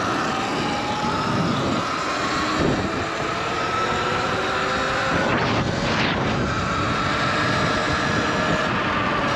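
Sur-Ron electric dirt bike riding at road speed: the motor's thin whine drifts slightly in pitch over a steady rush of wind on the microphone. A brief whoosh comes about five to six seconds in.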